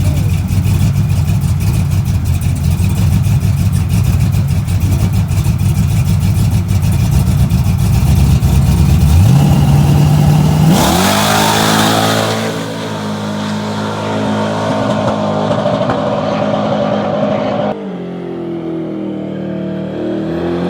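Drag-racing truck's engine, loud throughout: a heavy rumble for about nine seconds, then the revs climb and it launches hard. It pulls with a steady note, and the pitch steps down sharply about eighteen seconds in.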